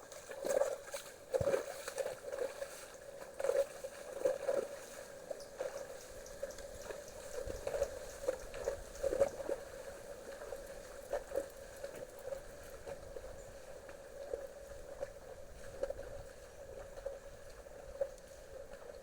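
Shallow creek with little water trickling and gurgling, with irregular small bubbling pops, busiest in the first half.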